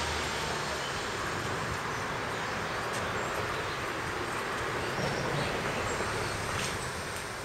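Sanyo Electric Railway train running over the elevated concrete viaduct overhead: a steady rumbling rush that eases slightly near the end.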